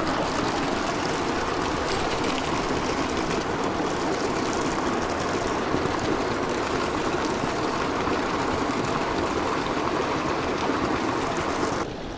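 Small mountain stream rushing and splashing close by, a steady, even water noise that drops off suddenly near the end.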